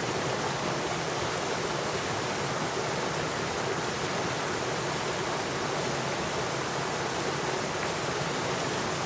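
Flowing water making a steady, even rush with no breaks or changes.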